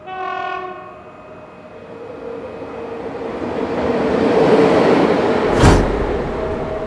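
Diesel locomotive horn sounds briefly, then the rolling noise of a passenger train's wheels on the rails grows steadily louder as heard from a coach window. A single sharp bang comes about five and a half seconds in.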